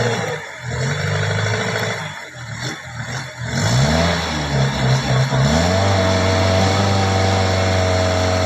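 A motor vehicle engine revving up and down several times, then holding a steady pitch for the last couple of seconds.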